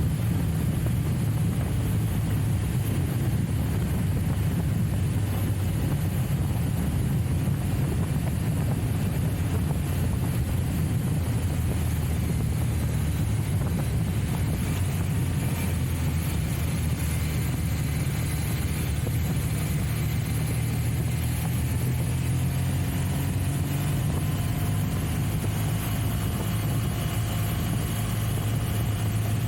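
Trial motorcycle engine running steadily with a low drone, the pitch shifting only a little.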